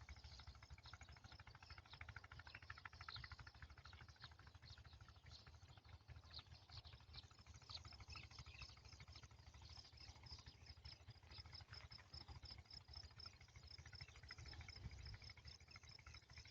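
Faint outdoor nature ambience: insects chirping in a fast, even run of high ticks, over a low steady rumble.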